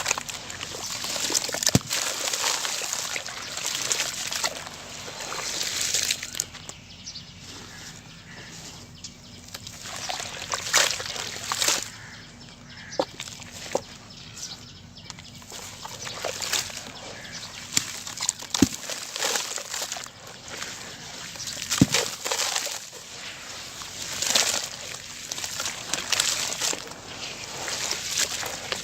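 Sand-cement crumbling and being crushed, over and over. Each crush gives a gritty, trickling rush of falling grains lasting a second or two, with sharp cracks as pieces break.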